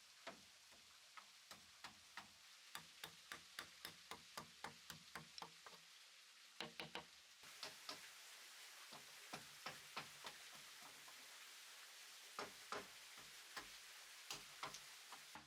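Wood being struck by hand in carpentry work: a run of sharp knocks, about four a second for several seconds, then irregular single and paired taps with pauses between.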